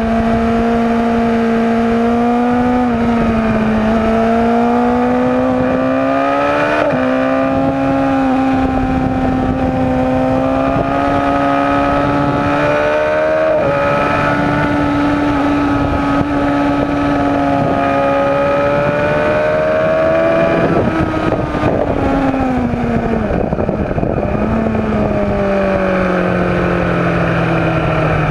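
Superbike-class racing motorcycle engine running hard at high revs, its pitch stepping at gear changes, then dropping over the last few seconds as the bike slows, with wind rushing over the microphone.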